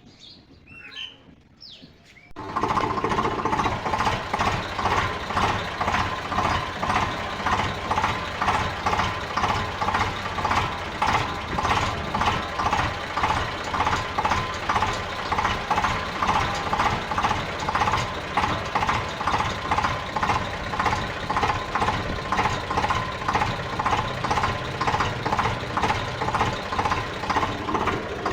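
Birds chirp briefly, then an engine-like running sound starts suddenly about two seconds in and carries on, pulsing steadily about twice a second.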